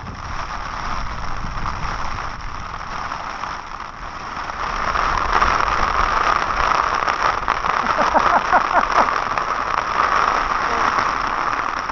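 Rain pattering on a tent's fabric: a dense, steady patter of drops that grows louder about five seconds in.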